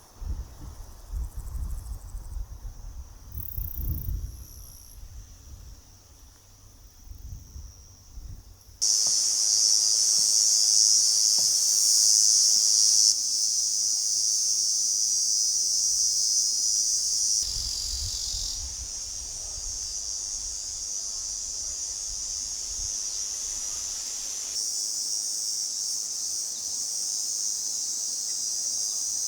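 Steady, high-pitched chorus of insects that comes in abruptly about nine seconds in and continues to the end; before it, only a low, uneven rumble.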